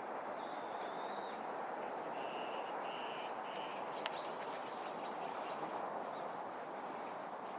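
Wild birds calling over a steady background hiss. About half a second in comes a held, high two-toned call. Around two to three seconds in, three short notes follow in a row, then a single sharp click.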